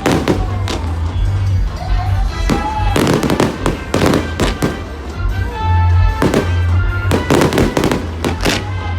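Fireworks exploding in clusters of sharp bangs and crackles every second or so, over music with a heavy bass.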